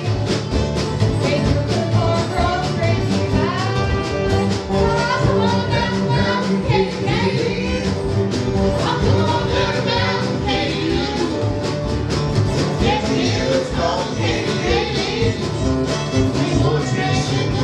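Bluegrass band playing a song live, with singing over the instruments.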